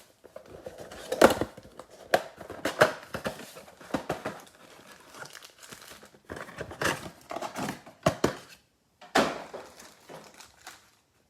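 Packaging of a trading-card mega box being torn open: irregular crinkling and short ripping sounds, with a brief pause near the end.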